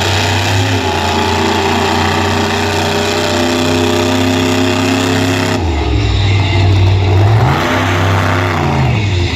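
Monster truck engine, loud, held at high steady revs for about five seconds, then dropping suddenly to a low idle, with one short rev up and back down near the end.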